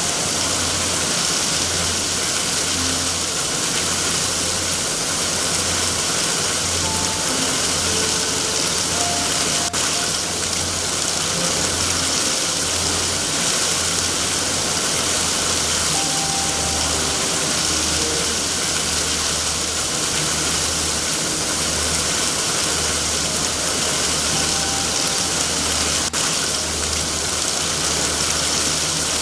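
Steady heavy rain with a low, uneven rumble beneath it and two faint clicks, one about a third of the way in and one near the end.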